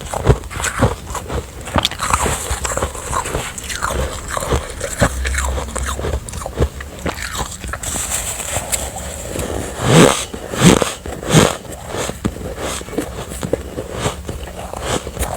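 Close-miked biting and chewing of refrozen ice: a dense run of gritty, crackling crunches, with three louder bites in a row about ten seconds in.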